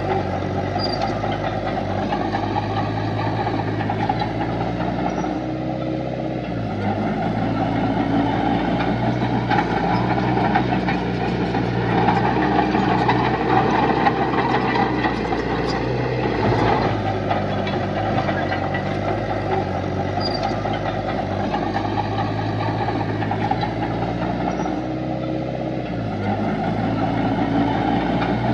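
Heavy diesel engine of earthmoving machinery running steadily under work, its pitch rising and falling a few times as the throttle changes.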